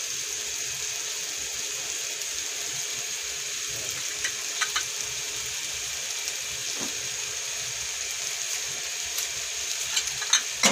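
Pork pieces sizzling steadily in a bubbling soy-based sauce in a nonstick wok, an even hiss, with a few light clicks about halfway through and near the end.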